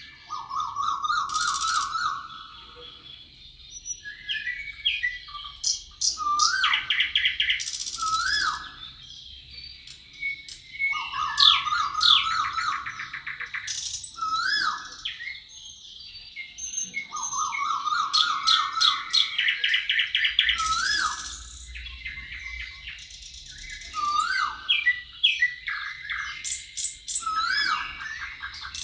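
Several songbirds singing and chirping over one another, one of them repeating a low, fast trilled phrase every several seconds, with sharp upslurred whistled notes and high buzzy calls between. A faint steady high tone runs underneath.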